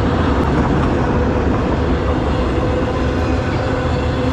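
Freight train rolling past at close range: a loud, steady rumble of steel wheels on rail from the passing cars, with a faint steady tone running through it.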